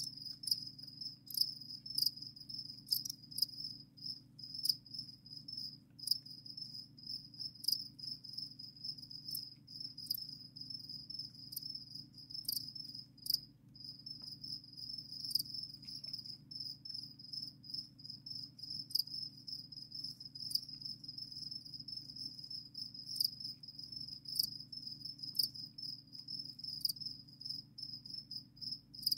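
Captive crickets singing: a steady, fast-pulsed high chirping that breaks off briefly about halfway through, with scattered sharp clicks over it.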